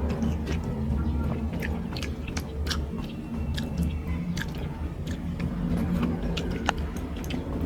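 A person chewing and smacking their lips close to the microphone while eating rice and fish curry: many short, wet clicks at an uneven pace over a steady low hum.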